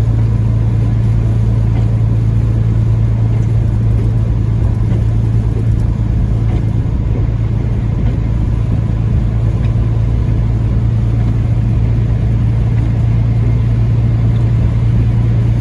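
Steady drone inside a Peterbilt 579 semi-truck cab cruising at about 40 mph: the diesel engine's low hum under an even rush of tyre and road noise.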